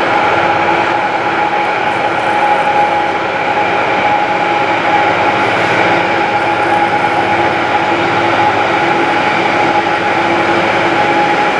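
Train at close range: a steady, loud running noise with a few constant held tones, even throughout, with no distinct wheel clicks.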